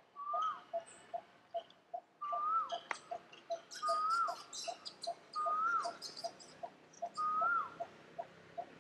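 Birds calling: a repeated whistled note about every second and a half, each held and then rising and falling at its end, over a steady run of short low notes about three a second, with a flurry of high chirps midway.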